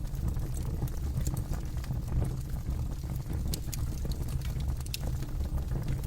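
Campfire burning: wood crackling with irregular sharp snaps and pops over a steady low rumble.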